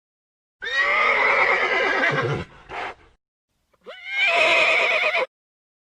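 A horse neighing: two long whinnies, the second starting about four seconds in.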